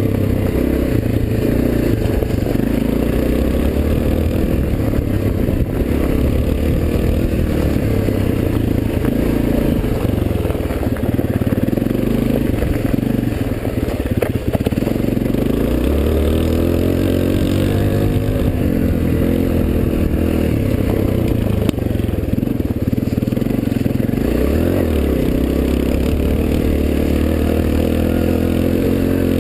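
Suzuki DR-Z125L dirt bike's small four-stroke single-cylinder engine running under way, its pitch rising and falling again and again as the throttle is worked.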